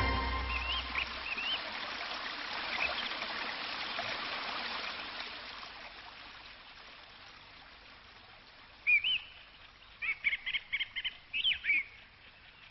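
Birds chirping: a few short chirps over a soft rushing hiss that fades away over the first six seconds, then a louder pair of chirps and a quick run of chirps near the end.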